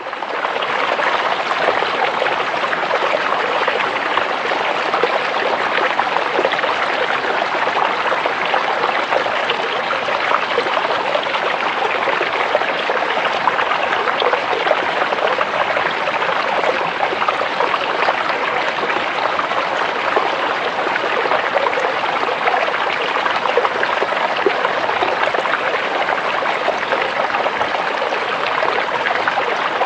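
A creek's water running and babbling over rocks, a steady, even rush with fine splashing texture.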